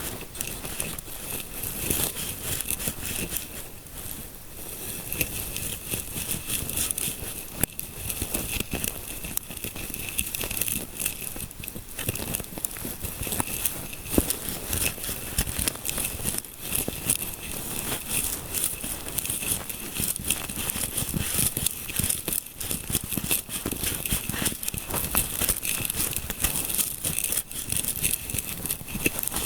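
Close-miked fingers rubbing and scratching through hair in a scalp massage, a dense, continuous crackling with many small crisp clicks.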